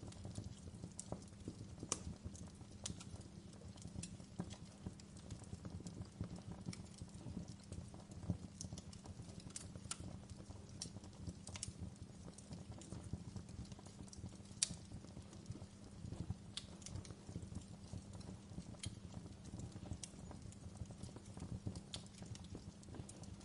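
Wood fire crackling in a fireplace: a steady low rumble of flame with irregular sharp pops and snaps, one louder snap a little past halfway.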